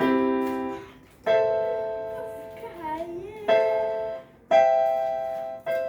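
A piano keyboard being played slowly: five notes or chords struck one at a time, each held and fading before the next. A voice sounds briefly in the gap after the second one.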